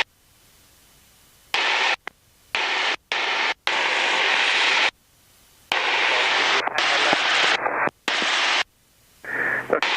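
Light aircraft cabin noise heard through the headset intercom: a steady rushing of engine and airflow that cuts out abruptly to near silence several times and then comes back.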